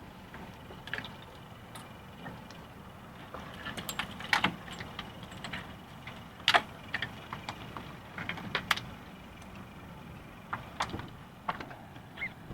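Irregular sharp clicks and knocks, a few clustered together, over a steady low background hum; two of the knocks, about four and six seconds in, are louder than the rest.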